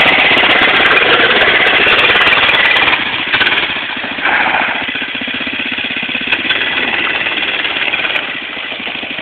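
Small single-cylinder engine running with a rapid, even chatter. It is loud and close for about the first three seconds, then drops back and runs on more quietly.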